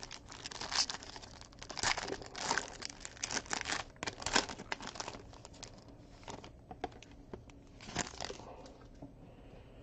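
Plastic wrapping crinkling and tearing as trading-card packaging is opened and handled. It is dense and irregular at first, then thins out to a few crackles after about six seconds.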